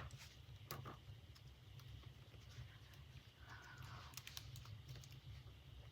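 Near silence with a few faint, scattered clicks and a brief soft rustle: small handling sounds of fabric being pressed into a metal purse-clasp frame.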